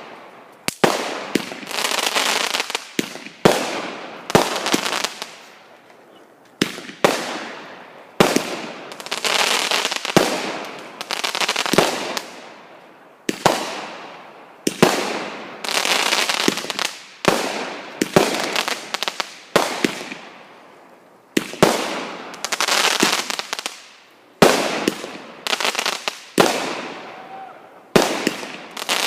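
Consumer fireworks going off in a long, steady run: sharp bangs every second or two, each followed by a crackling, hissing tail that fades away.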